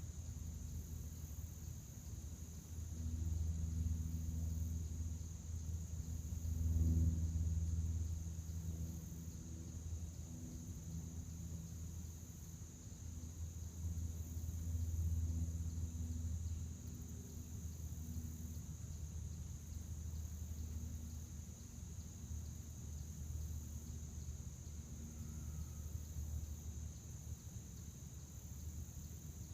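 A chorus of field crickets trilling steadily in one continuous high tone, over a low pitched drone that swells and fades a few times.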